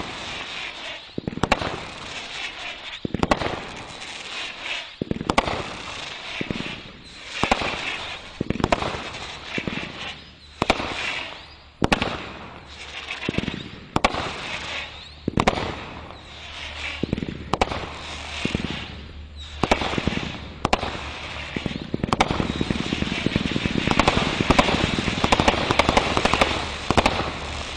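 Brothers 'Parrots Prattle' 36-shot firework cake firing: a shot about once a second, each bursting into warbling whistles and chatter. The shots merge into a dense flurry over the last five seconds or so, then stop.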